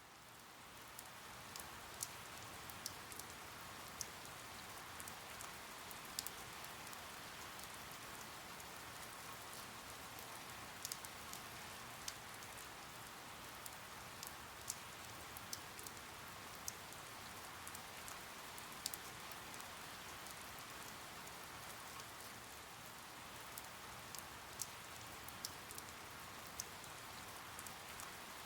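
Steady rain falling, an even hiss with scattered sharp drop ticks, fading up from silence over the first second.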